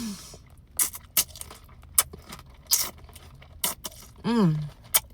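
Close-up chewing of a crunchy breaded mozzarella stick, with sharp crisp crunches every half-second or so. About four seconds in comes a hummed "mm" that falls in pitch.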